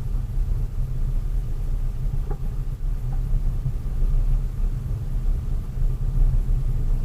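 Delivery vehicle's engine and road noise on the move: a steady low rumble, with a faint knock about two seconds in.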